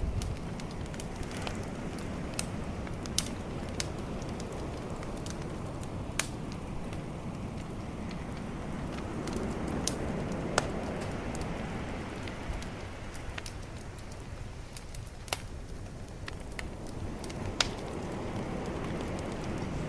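Bonfire crackling, with single sharp pops every few seconds, over a steady low wash of calm ocean waves.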